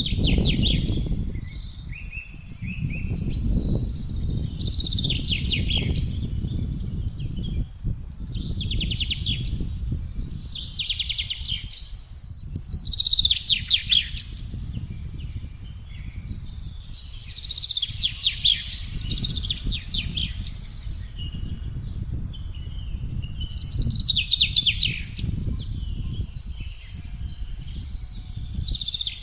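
A songbird singing short, rapid trilled phrases, one every two to three seconds, over a steady low rumble of wind that swells and eases.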